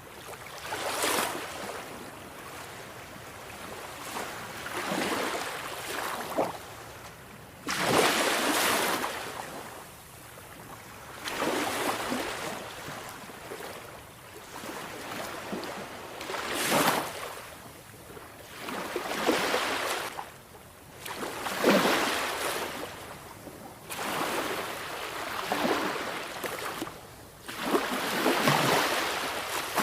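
Sea waves surging and washing in, one after another every few seconds. Each swell of rushing water rises and falls away, the loudest about eight, seventeen and twenty-two seconds in.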